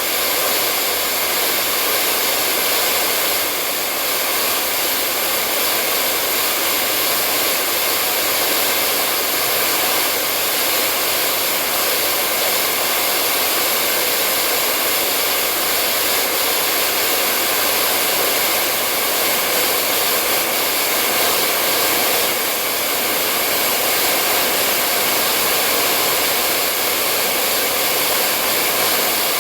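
Hair dryer blowing steadily: a constant whooshing rush of air with a faint whine, with no change in speed.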